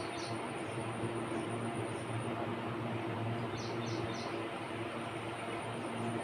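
Outdoor ambience: a steady hiss and low hum, with a bird's short high chirps, a couple at the very start and three quick ones a little past halfway.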